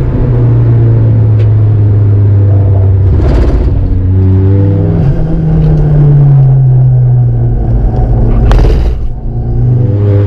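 Fiat Punto Abarth's tuned turbocharged four-cylinder engine heard from inside the cabin at track speed. It holds a steady note, then revs up and falls back through a gear. There are two brief hissing bursts, about three seconds in and near the end.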